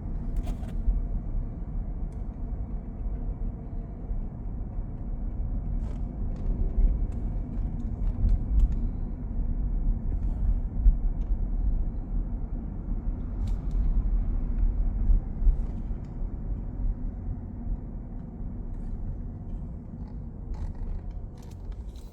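Steady low rumble of city road traffic, cars and buses passing on a wide street, swelling and easing slowly with a few faint clicks.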